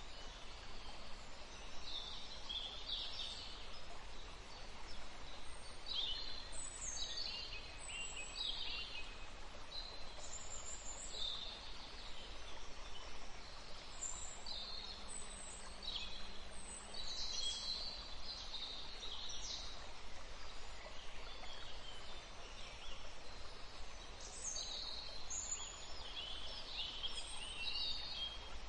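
Birds chirping in scattered clusters of short, high, falling notes over a steady background hiss.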